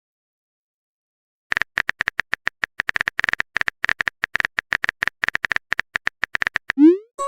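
Rapid, irregular run of short electronic blips, all at the same pitch, several a second, starting about a second and a half in and stopping just before the end. It is like a text-typing dialogue sound effect.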